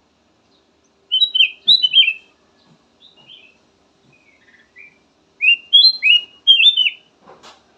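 Kutilang emas bulbul singing: two bursts of quick, clear chirped notes, one about a second in and another after about five seconds, with a few softer notes between them.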